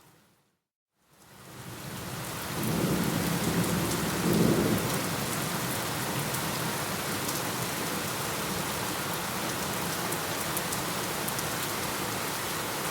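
Steady rain with a rumble of thunder. The sound fades out to a moment of silence just after the start, then the rain fades back in. Thunder swells between about two and five seconds in, then the rain continues steadily.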